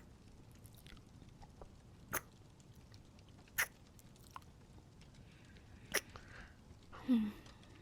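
Close-miked kissing: soft wet lip smacks, one every couple of seconds, with a short murmured hum near the end.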